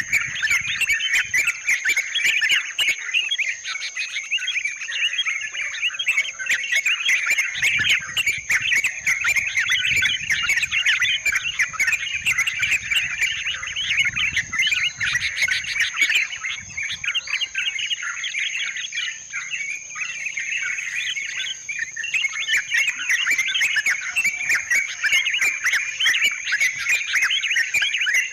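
Yellow-vented bulbuls chattering busily, many quick overlapping calls, easing briefly about two-thirds of the way through before picking up again. A steady high-pitched whine runs underneath.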